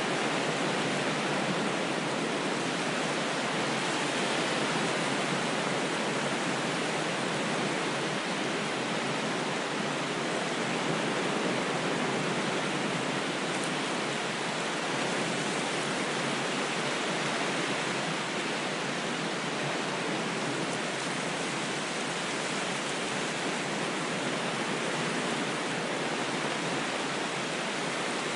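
Steady rushing water noise, even in level, with no separate wave surges and little deep bass.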